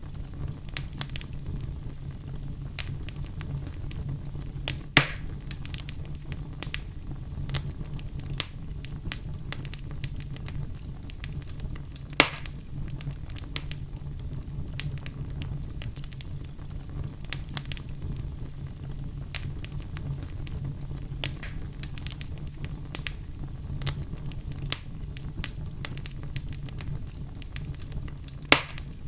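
Wood fire burning in a fireplace: a steady low rumble of flame under constant small crackles. Three sharper, louder pops come a few seconds in, about twelve seconds in, and near the end.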